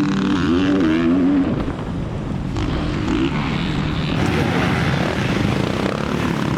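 Motocross bikes' engines revving, the pitch climbing and dropping sharply in the first second and a half, then a continuing mix of engine noise from the bikes.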